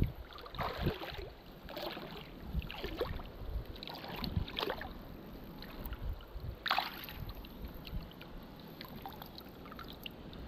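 Seawater splashing and sloshing in irregular swishes over a steady wash of background noise.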